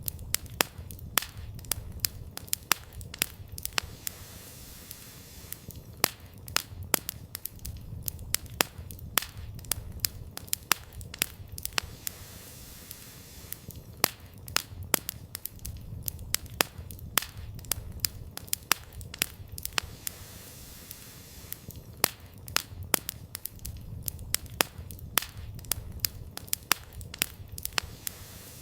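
Campfire of burning firewood crackling and popping in irregular sharp snaps, sometimes several a second, over a steady low rumble.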